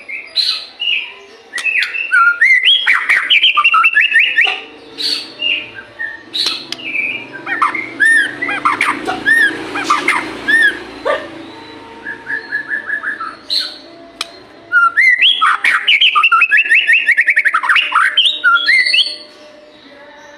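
White-rumped shama singing a fast, varied song of whistles and chattering trills, in loud bursts with short pauses between them.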